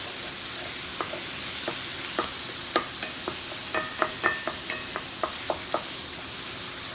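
Sausage frying and sizzling in bacon grease in a hot skillet, while a spatula taps sharply against the pan a dozen or so times, chopping the browning sausage into small crumbles.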